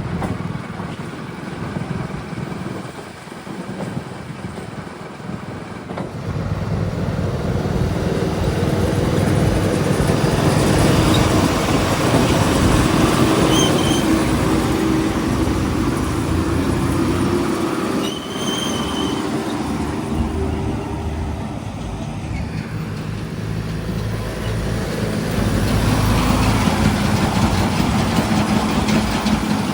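Diesel engines of a backhoe loader and tractors working while mud is loaded. The engines grow louder about six seconds in, ease off in the middle and pick up again near the end.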